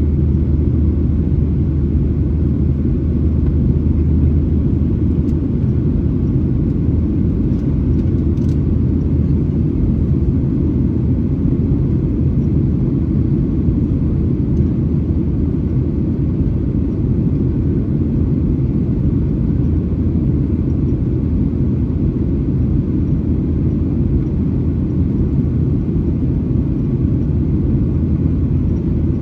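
Steady low drone inside the cabin of a Boeing 737-900ER, from its twin CFM56-7B engines and the air rushing past the fuselage. A couple of faint ticks come about eight seconds in.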